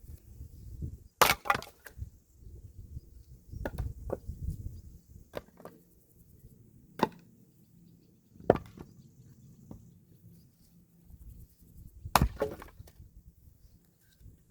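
Wood being split: about six sharp chopping strikes at uneven gaps of one to three seconds, with wood cracking and splintering.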